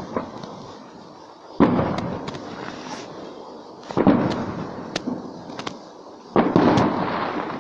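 Fireworks going off: three sharp bangs about two and a half seconds apart, each dying away with crackling.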